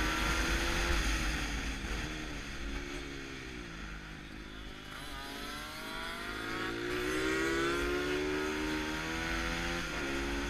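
Bucci F6 pit bike's single-cylinder engine at speed, heard on board: the revs fall away from about a second in as the rider slows for a corner, stay low through it, then climb again from about six seconds in as it drives out. Wind rumbles on the camera underneath.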